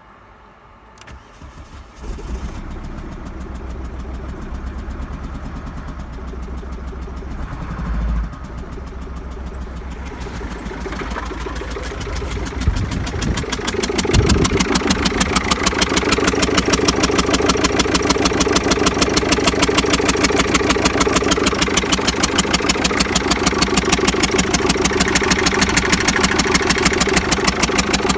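Mercedes OM668 1.7 CDI four-cylinder common-rail diesel engine being cranked over at length, with the level building and a few thumps, until it catches about halfway through. It then settles into a steady idle with an even, fast pulse.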